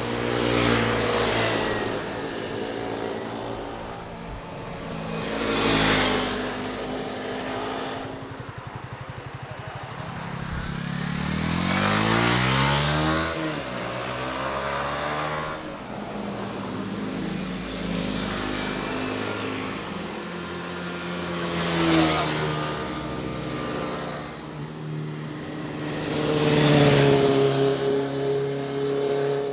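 Motorcycles passing one after another, each engine swelling and fading as it goes by: about five pass-bys, the loudest near the end. Near the middle, one engine's pitch climbs steeply as it revs up through the gears.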